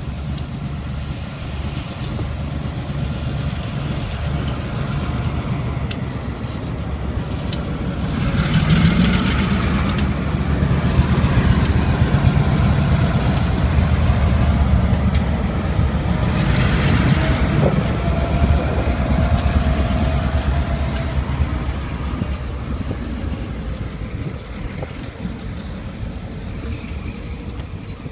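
Two EMD diesel locomotives, an MP15 switcher and a GP38, pulling a freight train past, their engines rumbling. The engine sound swells about a third of the way in, stays loud for roughly twelve seconds, then eases as the freight cars roll by with scattered clicks from the wheels.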